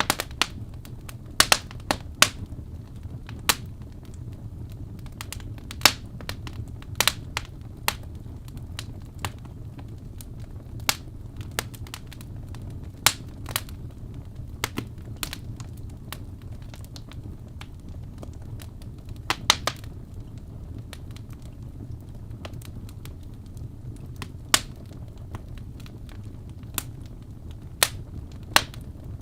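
Birch logs burning in a fireplace, crackling with irregular sharp pops over a steady low rumble of the flames.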